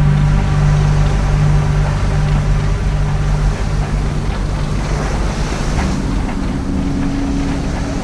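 Background music of long held low notes over a steady rush of surf and wind.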